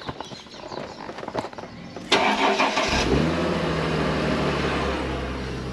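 A car's V6 engine starting: a few light clicks, then the starter cranks briefly about two seconds in, the engine catches, flares, and settles into a steady idle.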